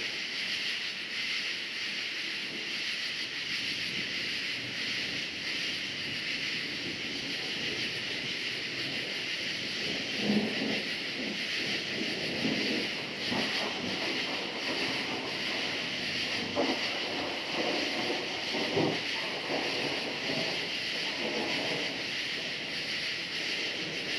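Dense, steady chorus of crickets. From about ten seconds in, irregular lower-pitched sounds come and go beneath it.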